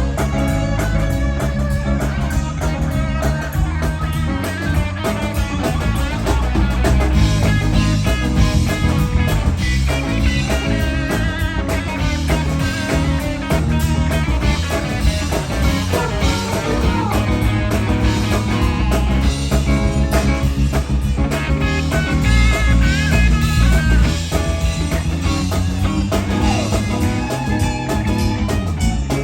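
Live rock band playing: electric guitar lead over bass and drum kit, with bending, wavering guitar notes.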